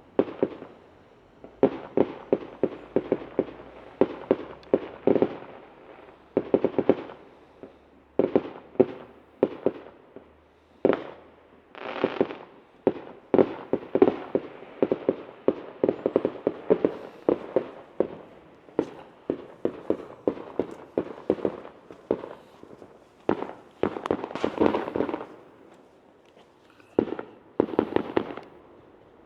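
Fireworks going off in rapid volleys of bangs and crackles, with short lulls between bursts.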